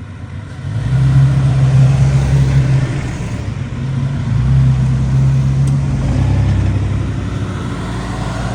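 A vehicle engine running, with its low hum swelling about a second in, easing briefly, then swelling again.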